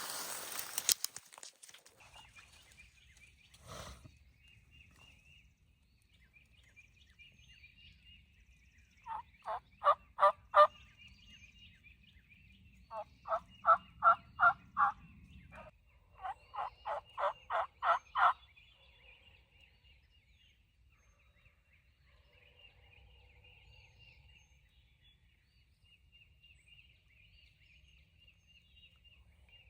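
Wild turkey yelping: three series of six to eight evenly spaced notes, each series lasting about two seconds, coming about ten, fourteen and seventeen seconds in. A short burst of rustling comes at the very start.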